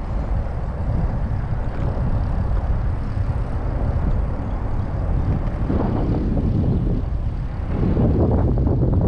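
Steady rushing wind and road noise from riding, with traffic; the noise swells briefly about six seconds in and again near the end.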